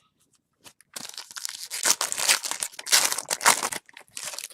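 A trading card pack's wrapper crinkling and tearing as it is opened. The handling is loud and jerky, starting about a second in and dying away shortly before the end.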